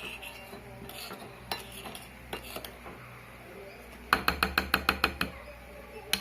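Spoon clinking against a dish, first a few light taps and then, about four seconds in, a quick run of sharp clinks, several a second, with two more near the end.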